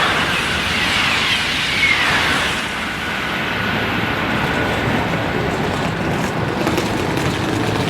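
High-speed train rushing past at speed, a loud, steady roar of air and rail noise with a falling whistle. The high hiss drops away about three seconds in, leaving a lower rumble.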